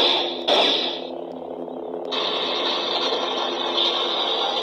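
Sound effects from an Eleskoco toy lightsaber's speaker. A last sudden blaster-deflect strike comes at the start over the steady saber hum. From about two seconds in, a sustained lockup effect is held over the hum.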